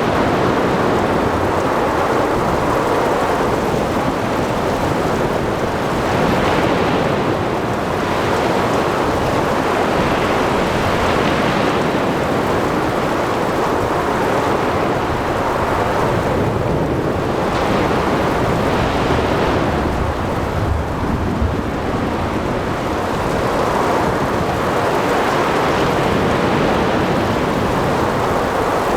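Sea thunderstorm ambience: a steady wash of heavy rain and wind with waves, swelling and easing slowly. A deep rumble of thunder rolls in a little past the middle.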